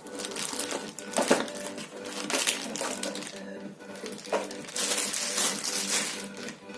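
Clattering and rustling as a torque wrench and its case are handled: a few sharp knocks and a longer scraping hiss near the end, over quiet background music.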